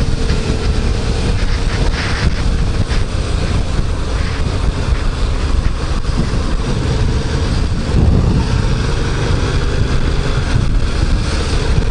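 Yamaha MT-07's 689 cc parallel-twin engine running steadily while riding at a constant pace in third gear, around 3000 rpm, with wind noise on the microphone.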